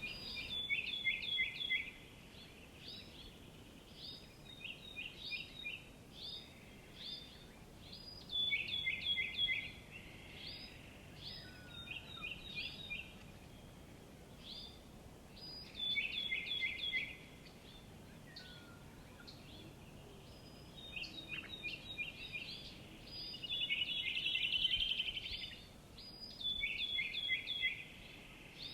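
A songbird singing a short phrase of quick notes that step down in pitch, about five times, with single high chirps in between.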